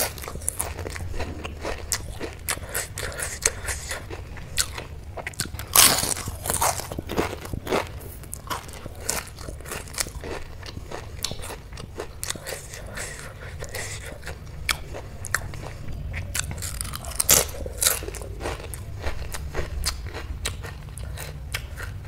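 Close-up crunching and chewing of a crisp moong dal papad: irregular crackling bites and chews, with louder bursts of crunching about six seconds in and again around seventeen seconds.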